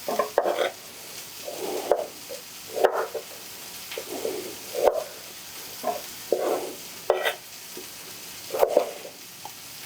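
Ham sizzling in a hot pan with a steady hiss, while a utensil stirs and scrapes through it in irregular strokes about once a second, with a few sharp clicks.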